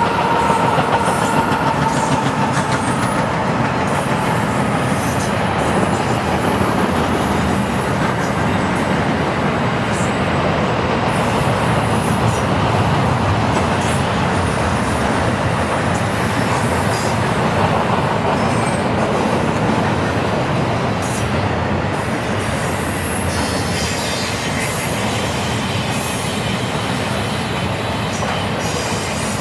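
Double-stack intermodal freight train rolling past at close range: a steady rumble and rattle of wheels on the rails, with a faint wheel squeal near the start that fades out.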